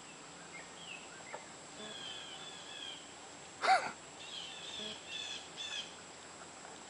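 Songbirds chirping and singing in the background, a series of short high notes, with one brief louder high-pitched call a little past halfway.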